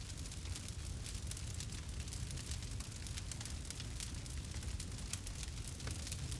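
Campfire burning, with many small, quick crackles and pops over a steady low rumble.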